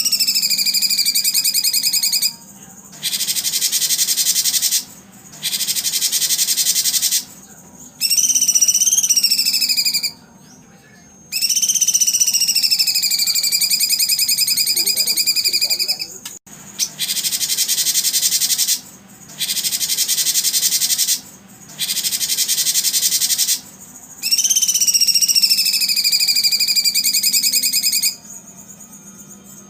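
Songbird calls alternating long whistled notes, each held for several seconds with a slight dip in pitch, and dense, high buzzing trills of about two seconds each, separated by short pauses.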